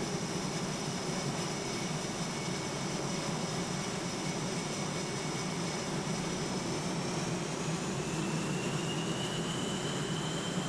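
Jet engine running: a steady rush of noise with a high-pitched whine that rises in pitch about seven seconds in and then holds, as the engine spools up.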